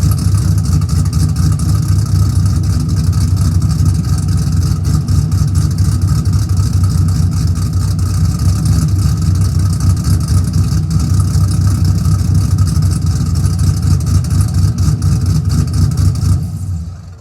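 2002 Camaro SS's LS1 V8, fitted with a Stage 3 cam, long-tube headers and an axle-dump exhaust, idling steadily, then shut off near the end.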